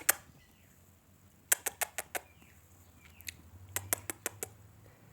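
Budgerigar making sharp little clicks, a pair right at the start and then two quick runs of four or five, with a few faint soft chirps in between.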